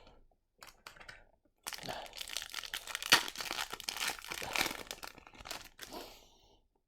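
Hockey card pack wrapper crinkling and tearing as it is handled and torn open, a dense run of crackling with a few light clicks just before it.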